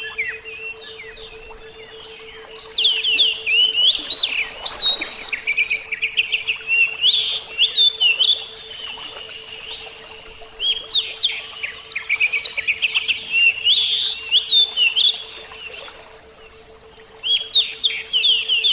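Oriental magpie-robin (kacer) singing in vigorous bursts of quick, varied whistles and chirps, pausing near the start and again near the end before resuming. A faint steady hum runs underneath.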